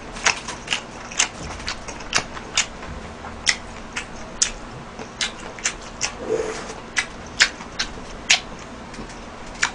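Close-miked chewing of a mouthful of rice: irregular wet smacking clicks from the mouth, roughly two a second.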